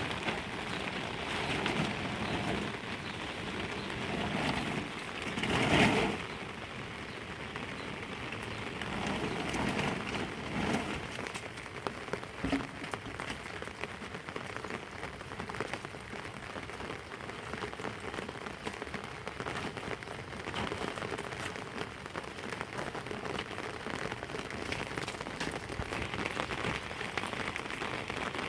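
Heavy rain falling steadily, a dense patter of drops, with a brief louder surge about six seconds in.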